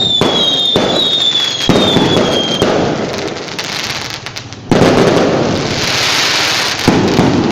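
Fireworks: a series of loud bangs, each trailing into a crackling hiss, with falling whistles over the first couple of seconds.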